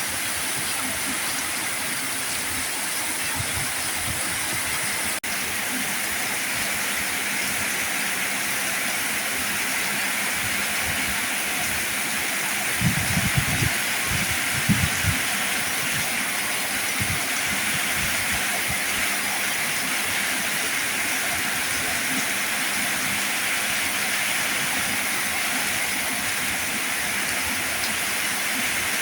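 Heavy rain falling steadily, an even hiss with no letup. A few low thumps come about halfway through, and there is a split-second gap about five seconds in.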